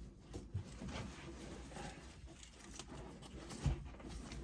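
Rustling straps and faint clicks as a six-point racing harness is fastened, with one soft knock about three and a half seconds in.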